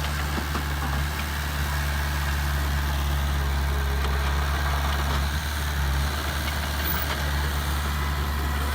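Heavy diesel engine of earthmoving machinery running steadily at a low, even speed.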